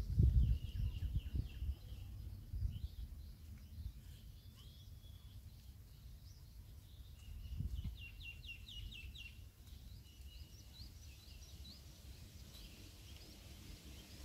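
Small birds chirping in short, high calls and quick trills, busiest about halfway through. Underneath is a low rumbling noise, loudest in the first couple of seconds.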